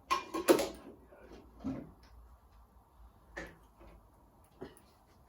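Knocks and clunks of parts being handled. The loudest two come within the first second, followed by three softer ones spread over the next few seconds.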